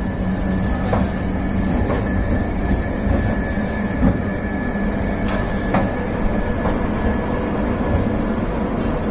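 Electric local train running on the track: a steady low rumble with a few sharp clicks of the wheels over rail joints and a faint steady whine.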